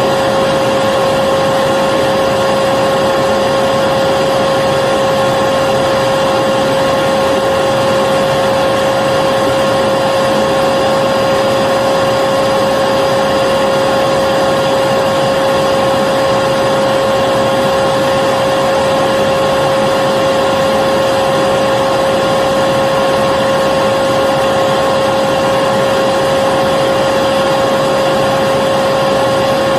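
Vacuum cleaner running steadily: a constant loud rush of air with a steady high hum.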